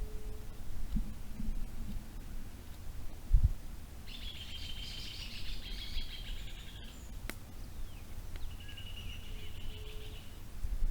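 A small songbird singing a fast, even trill of rapid repeated notes, about three seconds long, then a second shorter trill near the end. A dull low thump sounds once, a few seconds before the first trill.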